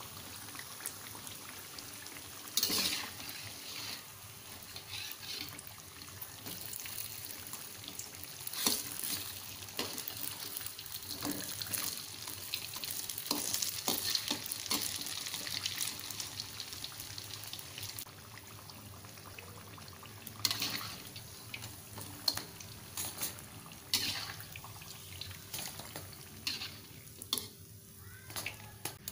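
Flour-battered tempeh deep-frying in hot oil, a steady sizzle, with scattered knocks and scrapes of a spatula against the pan. The sizzle thins near the end as the pieces are lifted out onto a wire strainer.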